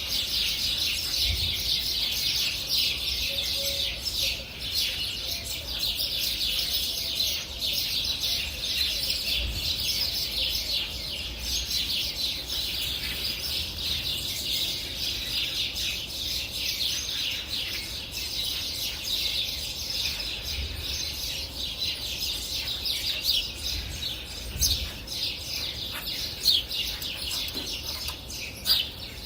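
Many small songbirds chirping and trilling continuously, high-pitched overlapping calls forming a dense dawn-chorus-like ambience.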